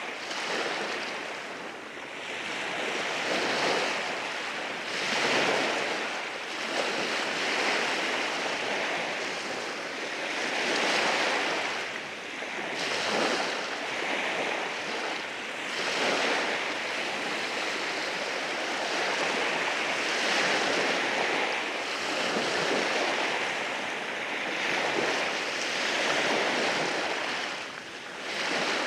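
Waves breaking and washing over rocks on a shore, a continuous rush of surf that swells and ebbs every few seconds.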